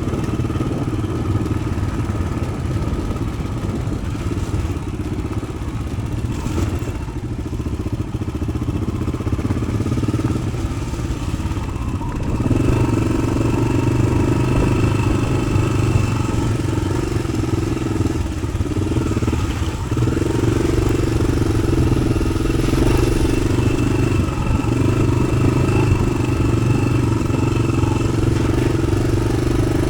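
Yamaha XT600's single-cylinder four-stroke engine running while the motorcycle is ridden, through an aftermarket Arrow exhaust. The engine pulls louder from about halfway through, with a few brief dips in the note later on.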